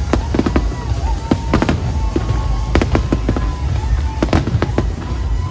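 Fireworks display: a rapid, irregular series of sharp bangs and crackles, several a second, over a continuous deep rumble of booms.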